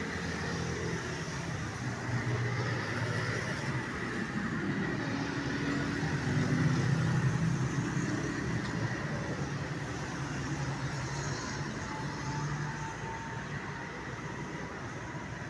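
Road traffic passing close by: steady vehicle engine and tyre noise that swells as a vehicle goes past about halfway through, then eases off.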